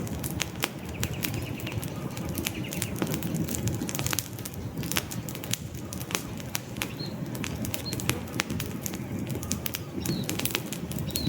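Wood campfire crackling, with frequent sharp pops and snaps over a low, fluttering rumble of flames. A few faint high bird chirps come in during the second half.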